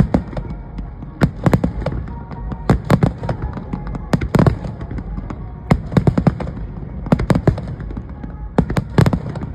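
Fireworks shells bursting overhead: clusters of sharp, crackling bangs, several in quick succession, recurring about every second and a half.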